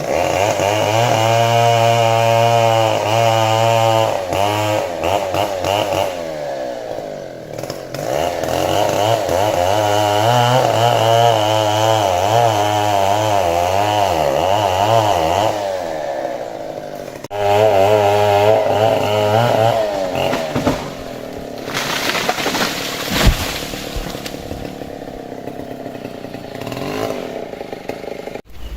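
Stihl chainsaw cutting into the trunk of a large trembesi (rain tree). Its revs waver under load through three long cuts, sagging briefly between them, then it runs more quietly for the last few seconds, with one sharp knock partway through that stretch.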